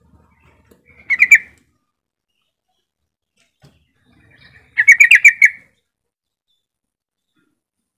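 Yellow-vented bulbul singing two short phrases, each a quick run of notes: a brief one about a second in and a longer one about five seconds in.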